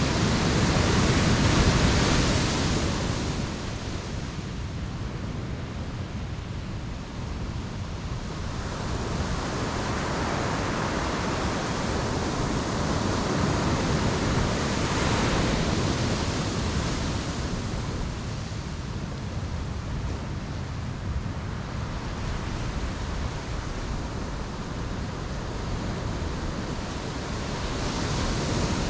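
Ocean surf breaking on a beach: a steady wash of waves that swells in slow surges, loudest about two seconds in and again around fifteen seconds, building once more near the end.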